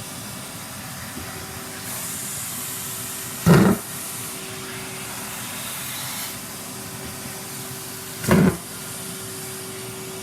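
Henry vacuum cleaner running steadily with a constant hum; its suction hiss grows louder for a few seconds from about two seconds in. Two short loud thumps sound about three and a half and eight seconds in.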